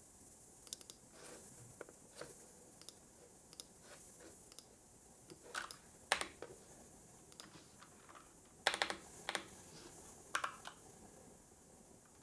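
Typing on a computer keyboard: sparse, irregular keystrokes with a few louder runs of key taps midway and near the end, over a faint steady hiss.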